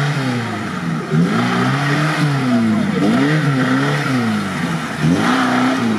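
Lada Niva engine revving hard under load, its pitch rising and falling about once a second as the throttle is worked while the car claws up a muddy rut.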